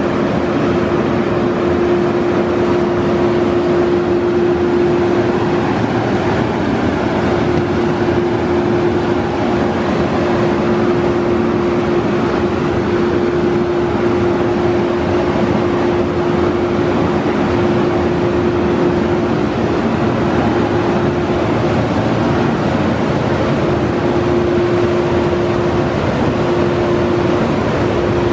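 Oasis Baywash i5 touch-free automatic car wash running: a loud, steady rushing noise with a constant mid-pitched hum, which breaks off briefly twice near the end.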